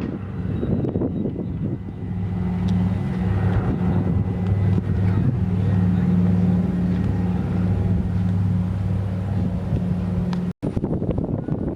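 An engine running steadily: a low, even hum with a faint high whine above it. The sound drops out for an instant near the end, at a cut.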